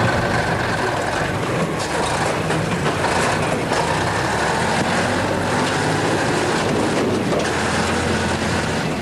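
URAL 4x4 off-road truck driving, its engine running steadily under a dense rumble of drivetrain and tyre noise.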